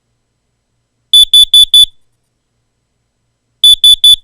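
Carbon monoxide alarm sounding its four-beep pattern: four quick high beeps, a pause, then four more. The four beeps, against a smoke alarm's three, signal that carbon monoxide has been detected.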